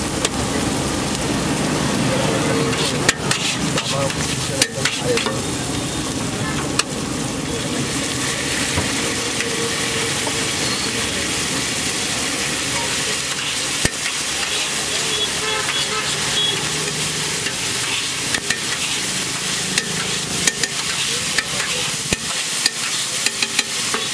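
Chopped vegetables and spice masala sizzling in oil on a large flat iron griddle (tawa), with sharp clicks and scrapes of a long metal spatula on the iron, a few in the first seven seconds and a quick run of them near the end.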